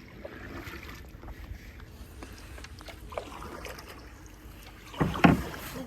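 Paddling a small boat through calm water: paddle strokes and water trickling, with scattered light knocks and a louder thump about five seconds in.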